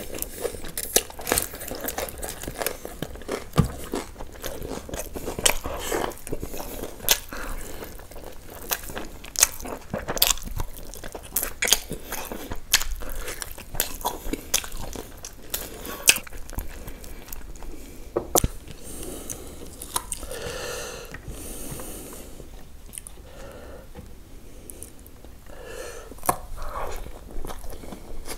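Close-miked chewing and biting of tandoori chicken, with many sharp crunches and wet mouth clicks; the sounds ease off and grow softer in the last third.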